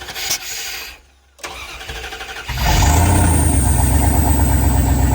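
A long-sitting engine catches about two and a half seconds in, then runs loud and steady. It is running on its own 17-year-old gas after a start helped by brake cleaner.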